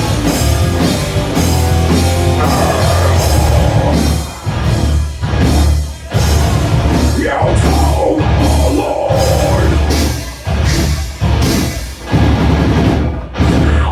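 Black metal band playing live and loud, with distorted guitars, bass and drum kit. In the second half the band plays stop-start hits with brief breaks between them.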